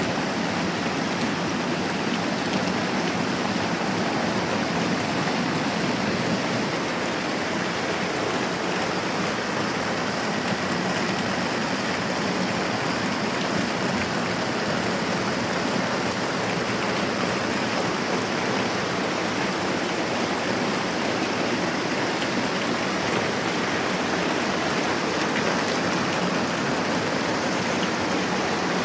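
Moderate rain falling steadily, an even wash of drops that keeps the same level throughout.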